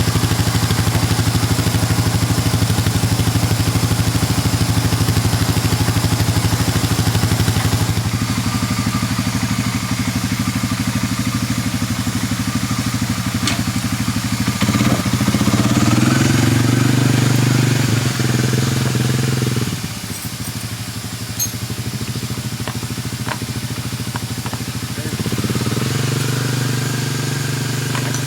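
ATV engine running: a steady idle that picks up and rises in pitch about halfway through, drops back suddenly a few seconds later, and picks up again near the end.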